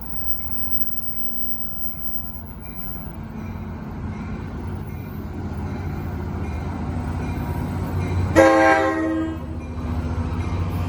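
NJ Transit train approaching, its rumble growing steadily louder, with one short horn blast about eight seconds in.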